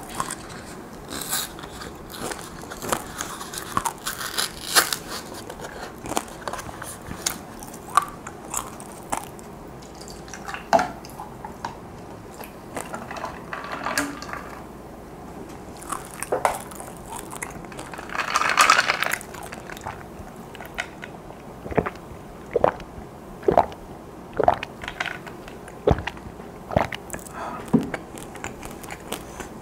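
Close-up chewing and crisp crunching of sugar-coated fried dried chili peppers (gochu-bugak), in a long run of short sharp crunches. Partway through, chocolate milk is poured from a carton into a plastic cup.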